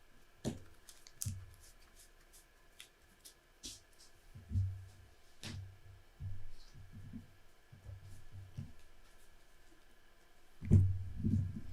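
Playing cards being shuffled and handled on a table: scattered light clicks and soft knocks, with a louder knock near the end.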